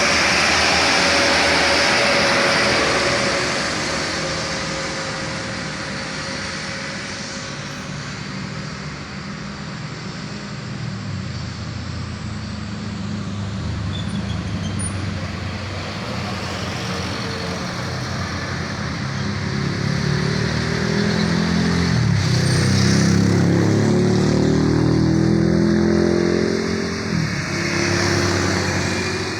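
Heavy road traffic passing close. Near the start a vehicle goes by with mostly tyre and wind noise. Later a heavy truck engine pulls hard, its pitch rising and then dropping back twice as it changes gear under load.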